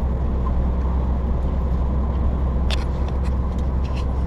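Steady low drone of a truck driving on a snowy, icy road, heard from inside the cab, with a few faint clicks in the second half.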